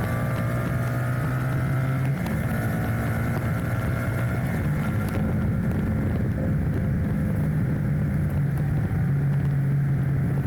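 Enduro motorcycle engine running at a fairly steady speed while riding, with tyre and gravel noise underneath. The engine note shifts briefly about two seconds in.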